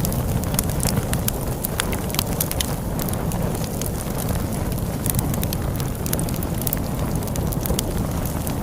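Wood fire crackling, with frequent sharp pops and snaps over a steady low rumble of storm wind.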